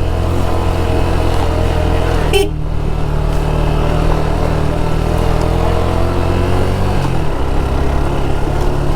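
Motorcycle engine running steadily under load while climbing a steep hill road, its note dropping slightly about seven seconds in. A brief sharp sound stands out about two and a half seconds in.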